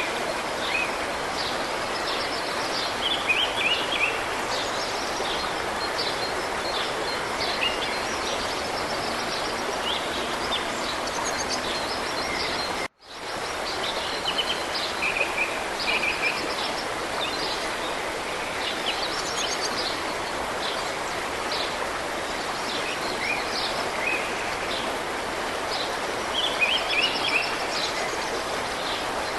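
Steady rush of mountain river water, with small birds chirping and trilling over it again and again. The sound cuts out for an instant about halfway through.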